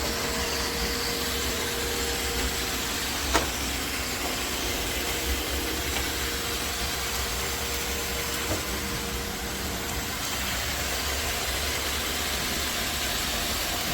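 iRobot Roomba Vac Essential (Q0120) robot vacuum running, a steady whirring hiss from its vacuum motor and brushes, with a single click about three seconds in.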